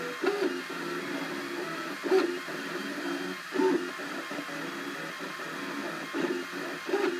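Cubify 3D printer's stepper motors running as the print head moves, a steady pitched whirring that steps between tones, with louder short chirps every second or two.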